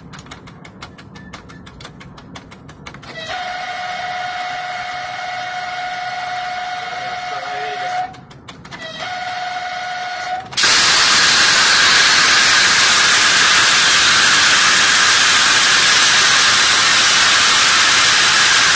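Train horn sounding a long steady blast, a brief break, then a second blast, after faint rapid clicking at first. About halfway through a loud, continuous hiss takes over abruptly, the sound of the train's emergency brake being applied.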